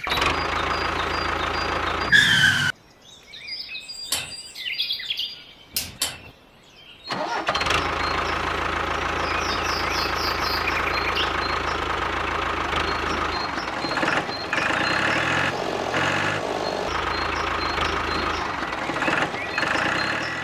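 Small model diesel engine running steadily. It drops out about three seconds in, and a few seconds later it runs again steadily.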